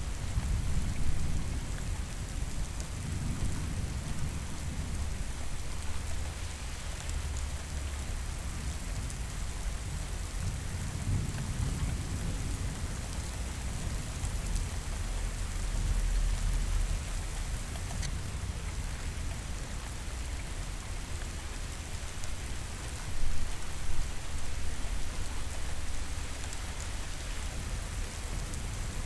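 Steady heavy rain with thunder rolling in the distance. Low rumbles swell and fade several times, the strongest near the end.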